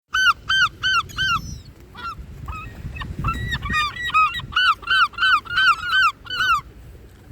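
Gulls calling: loud, repeated yelping calls at about three a second, several birds overlapping in the middle. The calling stops near the end.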